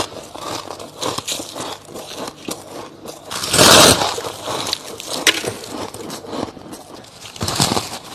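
Soft frost and crushed ice being bitten and chewed, with irregular crunching and crackling. One big crunching bite about three and a half seconds in is the loudest sound.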